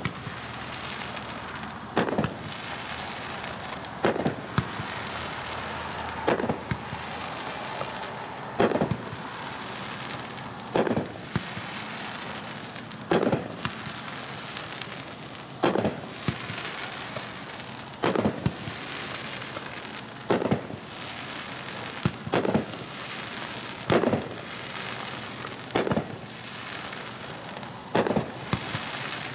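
A 500-gram consumer fireworks cake (Hot Shot's 25-shot Ethanol) firing, heard from a long way off: a sharp report about every two seconds, roughly thirteen in all, over a steady hiss between the shots.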